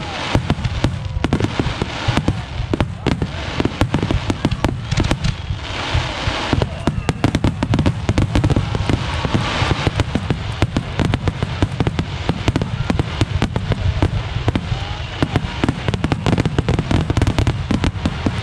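Fireworks display: many shells bursting in quick succession, overlapping bangs and crackle over a continuous low rumble, with no pause.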